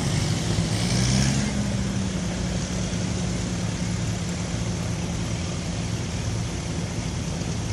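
Tractor engine running steadily at low revs, briefly louder about a second in.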